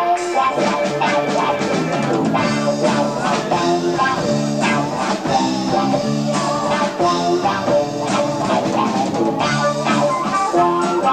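A progressive rock band playing live in an instrumental passage, with electric guitar, bass guitar and a drum kit. It is heard on an amateur cassette recording with a dull top end.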